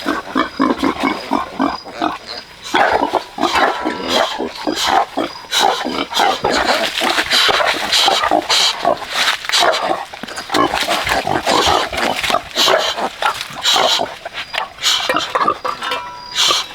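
Pigs calling, a dense run of short calls one after another with barely a pause.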